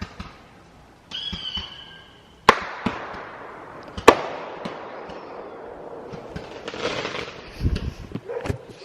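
Fireworks going off: a high whistle, then two sharp bangs about a second and a half apart, each trailing off into a long fading crackle and rumble, with a few duller pops near the end.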